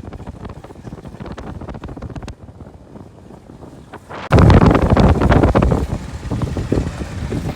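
Wind buffeting the microphone over a low rumble; about four seconds in a strong gust hits suddenly and the buffeting stays loud.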